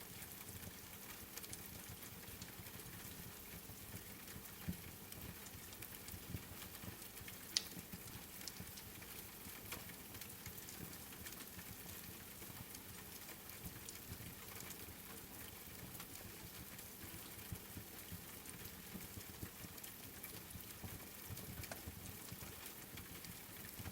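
Steady rain patter mixed with a wood fire crackling, with scattered small pops and one sharper crack about a third of the way in.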